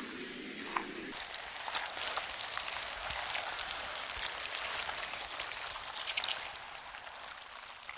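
Rain falling: a steady hiss full of small drop ticks, setting in about a second in after a lower, muffled sound.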